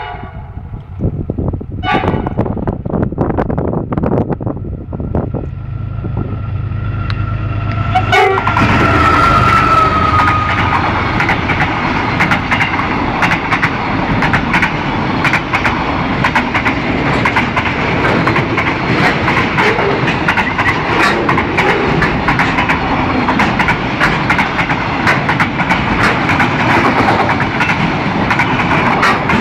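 Freight train passing close by: the diesel locomotive's engine drone builds as it approaches, a brief high tone sounds as the locomotive reaches the camera about eight seconds in, then the container wagons roll past with a steady loud rumble and rapid wheel clatter.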